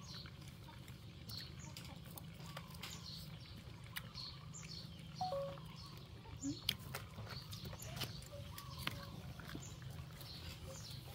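Small birds chirping in the background, with short high chirps that slide downward, repeated about once a second. Scattered sharp clicks and a few short higher blips come through over them, the loudest just past the middle.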